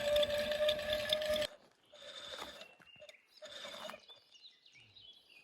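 Motorcycle-mounted winch working its cable drum: a steady whirr with rapid clicking that cuts off suddenly about a second and a half in, followed by two short bursts.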